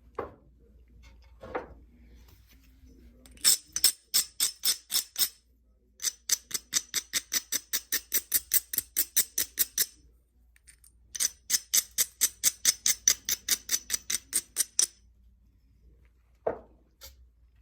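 Novaculite being worked with a knapping tool: three runs of quick, sharp stone ticks, about five or six a second, with a few single knocks between them.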